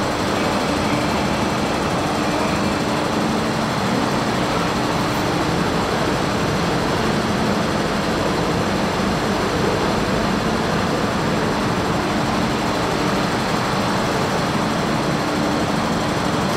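MTR K-stock electric train running past the platform screen doors of an underground station: a loud, steady rumble of wheels and traction equipment with a low hum.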